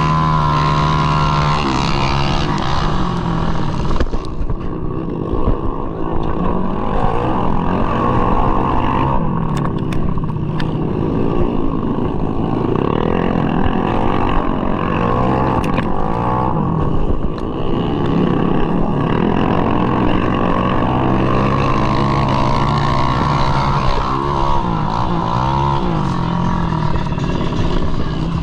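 Tuned 200cc bore-up Mahindra Rodeo scooter engine racing, its pitch rising and falling with the throttle, with several engine notes overlapping.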